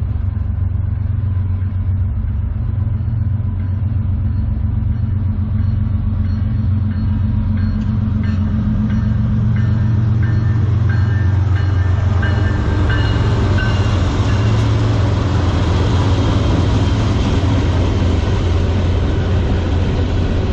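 Diesel freight locomotives passing with a heavy low engine rumble, followed by the train's cars rolling by on the rails. Short high squeals come in about a third of the way through, and it grows louder into a steady rolling clatter from a little past halfway.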